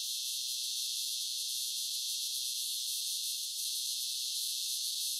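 Steady high-pitched hiss with no low end at all, like a sound passed through a sharp high-cut-the-bass filter.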